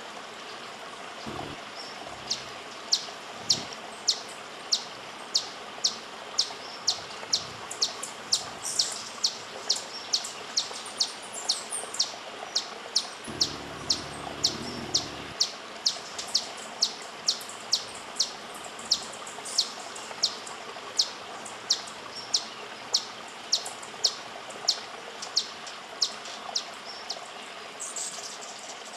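A bird repeats a short, sharp, high chip note about twice a second, on and on, over a steady rushing background.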